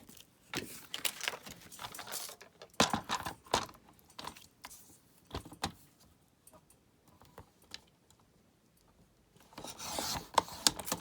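Paper being handled and trimmed to a narrower width: scattered taps, rustles and scrapes as the card is positioned, then a longer scraping cut near the end, as of a paper trimmer blade sliding through it.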